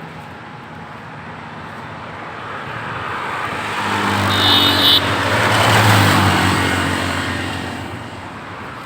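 A motor vehicle passing close by on a busy highway, its engine and tyre noise swelling to a peak about two-thirds of the way through and then fading, over steady traffic noise. About halfway through there is a brief high tone.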